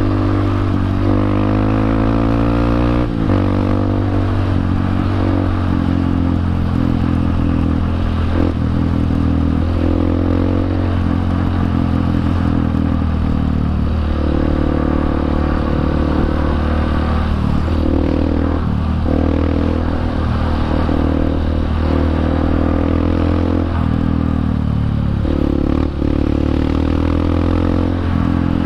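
Honda CRF150 single-cylinder four-stroke trail bike running through an aftermarket Norifumi exhaust, its engine note climbing and then dropping repeatedly as the revs rise and fall, with some rattling clatter underneath.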